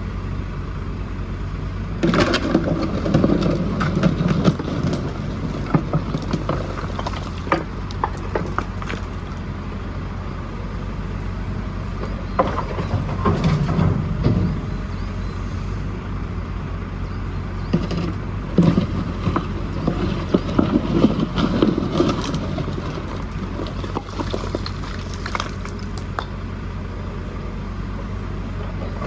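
JCB 4CX backhoe loader's diesel engine running steadily, with spells of louder engine working and knocks and clatter as it works rubble, about two seconds in, around twelve to fourteen seconds, and again from about eighteen to twenty-three seconds.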